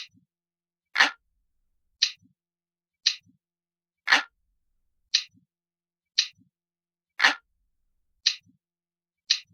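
Analog clock ticking in a steady loop, about one sharp tick a second, with every third tick fuller and heavier than the others.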